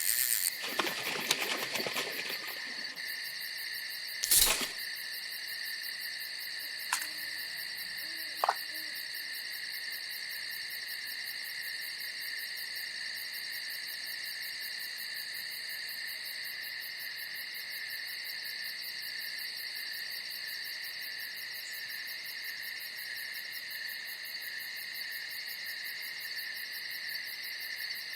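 Night insect chorus, crickets trilling steadily at several high pitches, with a sharp knock about four seconds in and two fainter short sounds a few seconds later.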